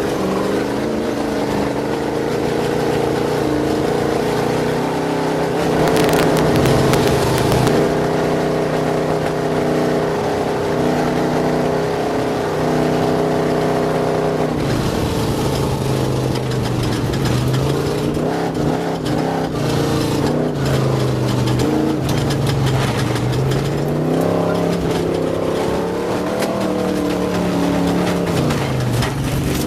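Race vehicle's engine running hard under throttle. Its pitch holds steady for long stretches, then falls and climbs again several times as the revs change, with a climb near the end.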